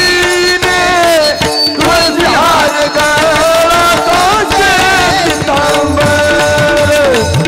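Devotional kirtan singing: a singer's voice holding and gliding through a long melodic line, accompanied by tabla and pakhawaj (mridang) drumming.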